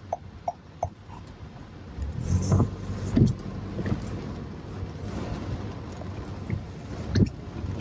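Car running on a wet road, heard from inside: a steady low rumble of engine and tyres with a hiss over it. A quick run of short beeps ends about a second in, and a few sharp knocks come later.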